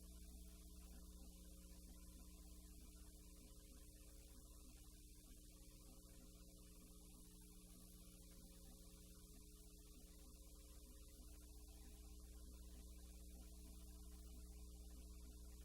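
Near silence: a low, steady electrical mains hum with faint hiss, as on a soundless film transfer.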